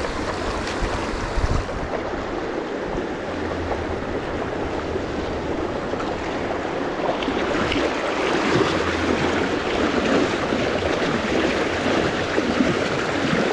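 Steady rush of a fast, shallow river current running over stones.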